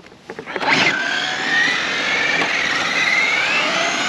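Electric drive motor of a 1/7-scale King Motor Citroën rally RC car whining as the car drives off. The whine starts suddenly about a second in and climbs slowly in pitch while the car keeps speeding up, over a rushing hiss.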